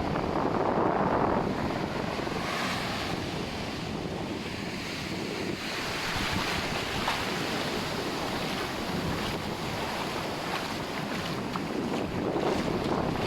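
Ocean surf washing onto a sandy beach, swelling in the first second or so and again near the end, with wind rumbling on the microphone.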